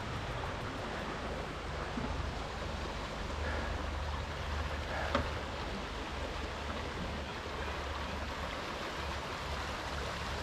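Creek water running steadily, with a low rumble underneath and a single faint click about five seconds in.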